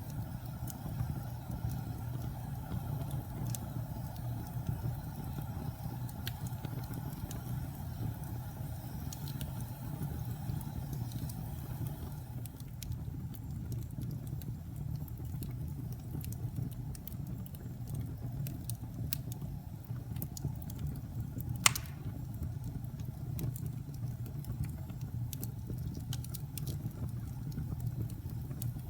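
Wood fire burning with a steady low rumble and scattered sharp crackles, and one loud pop about three-quarters of the way through.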